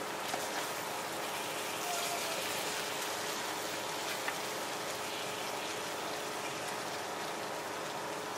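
Shredded-potato cakes and sausages sizzling steadily in oil on a flat steel griddle tray. A few light clicks come from metal spatulas touching the tray, the clearest about four seconds in.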